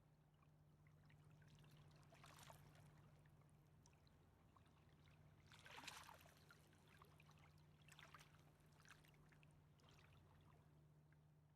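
Faint river water lapping and splashing at the bank in a few soft swells, the loudest about six seconds in, over a steady low hum.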